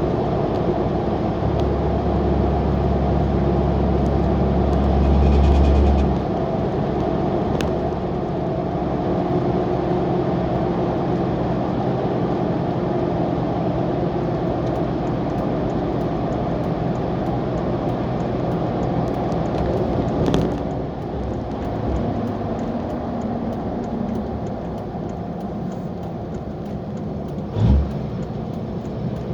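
Straight-piped 5.9-litre Cummins inline-six turbodiesel in a 2003 pickup, running under way with a steady exhaust drone. A heavy, deep drone for the first few seconds eases off after about six seconds. A short thump comes near the end.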